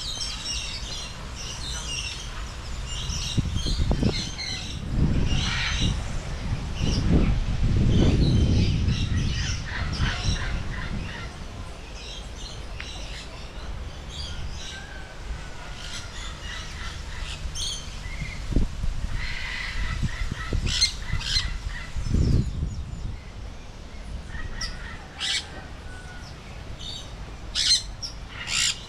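Many small birds chirping and calling in short bursts. Low rumbling buffets on the microphone come a few seconds in and again later.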